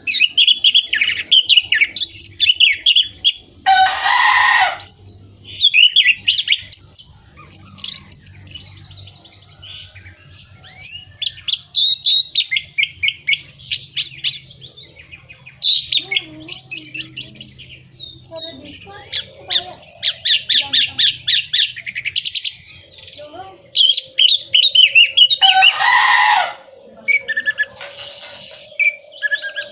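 Orange-headed thrush singing a long, varied song of quick high phrases, broken by two harsh rasping notes, one about four seconds in and one near the end. A steady low tone runs under the song through the last several seconds.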